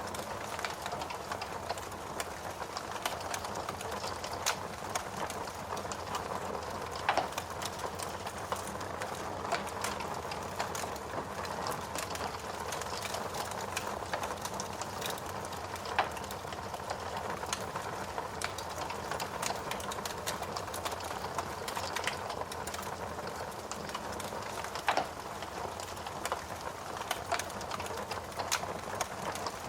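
Burning logs in a fireplace crackling: a steady hiss of flames with frequent small snaps and a few louder pops.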